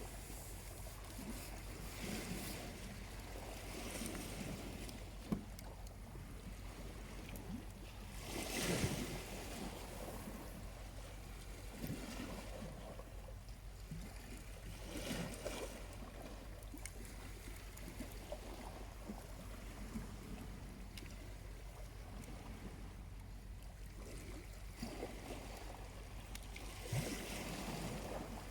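Small waves lapping on a quiet shore, each wash swelling and fading every few seconds, the biggest about nine seconds in. A few short sharp snaps, the clearest about five seconds in, come from the campfire's burning charcoal.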